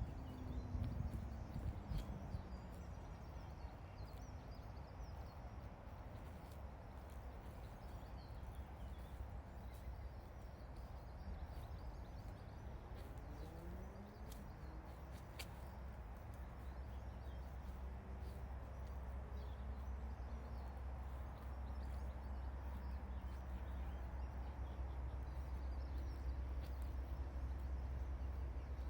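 Steady low rumble of distant road traffic with an even outdoor hiss, and a few faint rising and falling tones near the middle.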